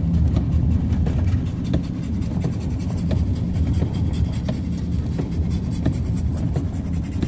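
Steady low rumble of a truck driving, heard from inside the cab, with scattered light ticks of rain striking the vehicle.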